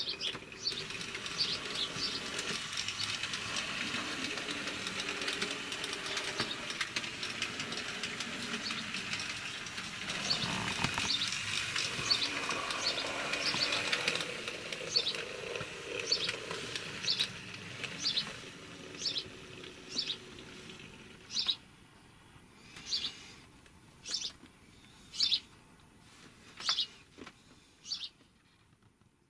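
A bird chirping, one short high call repeated about once a second, over a steady rushing noise that fades out about halfway through.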